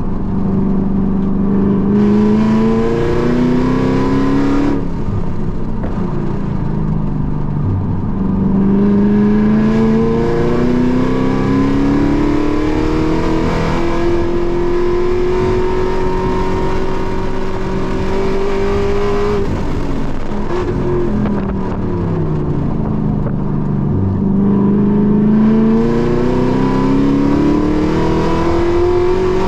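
Car engine heard from inside the cabin while lapping a race track. It revs up hard in several long pulls, with sudden drops in pitch between them, holds a high steady note for several seconds, then slows, winding down around two-thirds of the way through, before pulling up again near the end.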